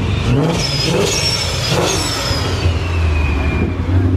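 Car engine revving twice with rising pitch over a steady low engine rumble, with a high whine that falls slowly in pitch.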